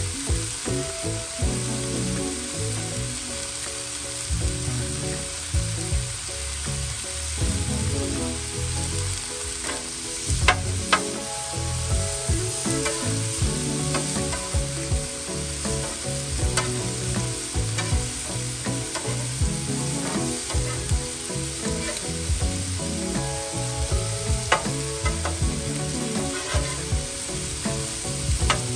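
Shrimp, steak strips and vegetables sizzling steadily on a hot Blackstone steel flat-top griddle. A metal spatula scrapes and clinks against the griddle top now and then, most sharply around the middle.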